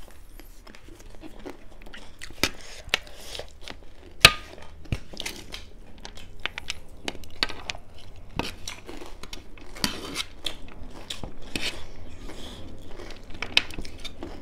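Chewing and biting of chatpate, a spiced puffed-rice and chicken snack, with many irregular crunchy clicks. One sharp clink rings briefly about four seconds in.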